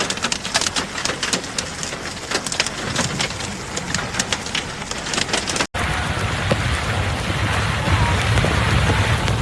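Heavy rain, with many sharp drops striking close by. About six seconds in the sound breaks off abruptly and comes back as denser, steadier rain with a low rumble.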